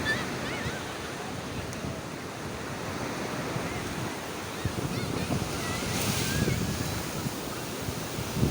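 Sea waves washing in, a steady rushing surf, with wind buffeting the microphone.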